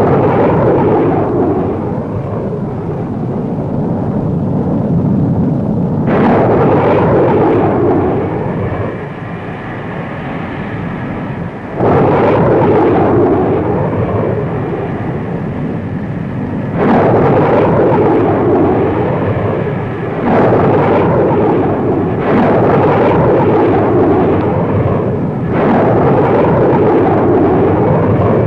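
Jet aircraft engines roaring loudly, in a string of sudden surges about every five seconds, with a wavering, sweeping quality to the roar.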